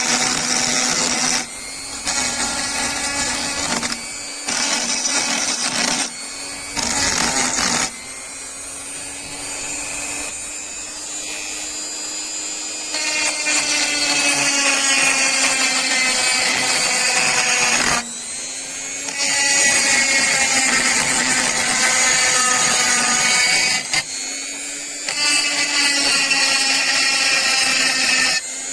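Small electric power tool running with a steady motor note and a hissing, grinding edge, on a rusty steel wrench being restored. Its loudness jumps up and down abruptly several times.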